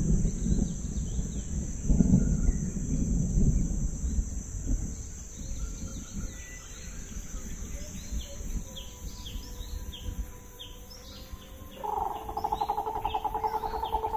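Wild birds chirping, many short falling calls, over a steady high-pitched hiss, with a low rumble in the first few seconds. About twelve seconds in, a louder pulsing, buzzy tone comes in.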